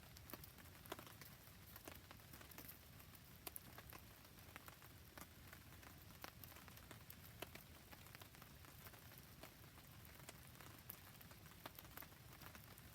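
Faint rain falling steadily, mixed with a campfire, with scattered sharp ticks through the steady hiss.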